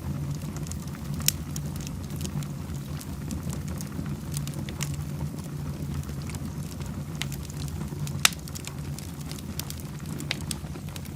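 Wood fire burning in a fireplace, crackling with many sharp pops over a steady low rumble. Two louder pops come about a second in and about eight seconds in.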